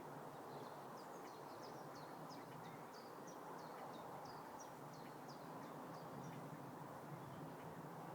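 A small bird singing a run of short, high, falling notes, about two or three a second, over a steady low background hum; the song stops shortly before the end.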